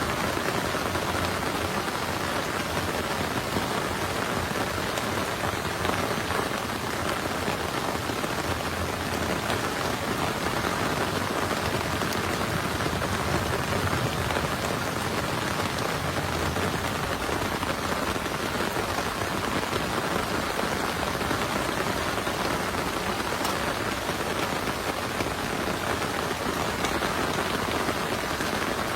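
Heavy rain falling steadily, an even hiss of drops with no thunderclaps.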